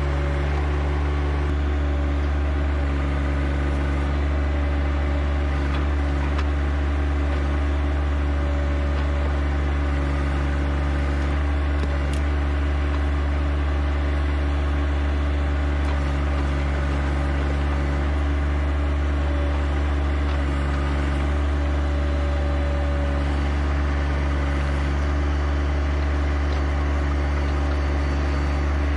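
John Deere 1025R compact tractor's three-cylinder diesel engine running steadily at constant speed.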